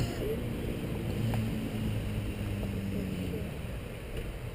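A low, steady engine hum over a background rumble, easing off after about three seconds.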